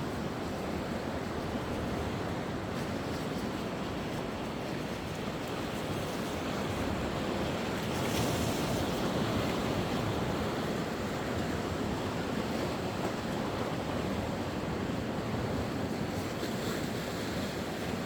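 Sea surf: waves breaking and washing up the shore in a steady rush, with one wave breaking more loudly about eight seconds in.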